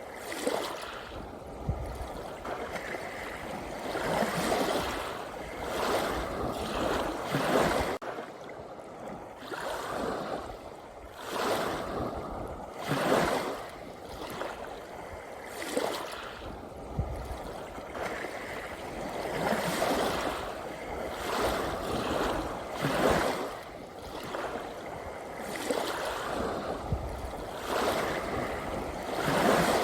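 Ocean waves washing onto a shore, a continuous surf wash that swells and ebbs every few seconds.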